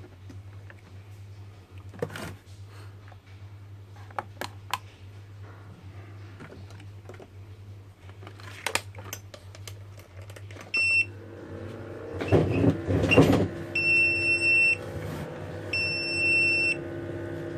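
Egg incubator's controller alarm beeping after power-on: one short beep, then long high beeps of about a second each, roughly every two seconds. This is the low-temperature alarm, which stops once the temperature rises. Before it, handling clicks over a low electrical hum, and a steady hum joins as the unit starts.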